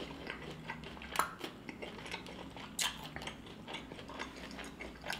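A person chewing food, soft irregular mouth sounds with a couple of sharper crisp clicks about a second in and near three seconds in.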